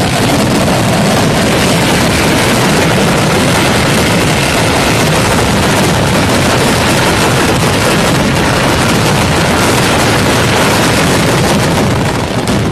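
Fireworks going off en masse in a fire, a rapid, unbroken barrage of bangs and crackling that blurs into one loud din and eases slightly near the end.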